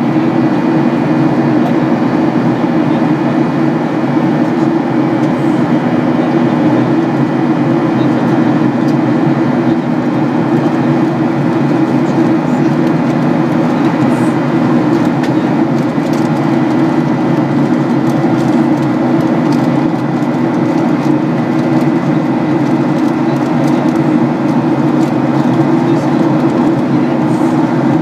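Steady in-flight cabin noise of a Boeing 737-800: a constant low drone from its CFM56-7B engines and the rush of air past the fuselage, with a few faint steady tones above it.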